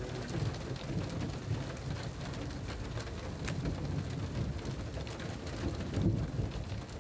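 Rain falling steadily, with scattered sharp ticks of drops striking and a low rumble that swells about six seconds in.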